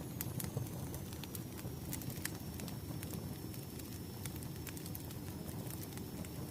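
Wood fire crackling: a steady low rumble of burning logs with scattered sharp pops and snaps, and a faint thin high whistle underneath.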